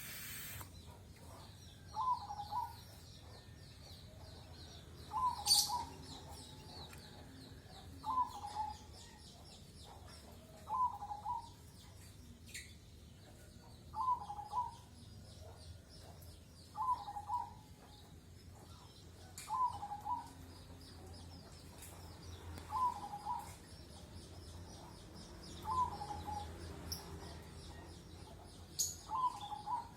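A bird calling over and over, a short two-part call repeated about every three seconds, with a steady high chirring behind it and a few sharp high chirps.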